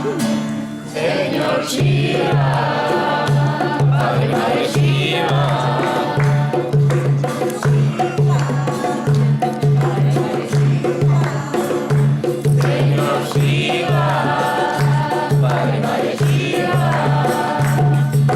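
Voices singing together over music with a steady low pulsing beat, in the manner of a chant.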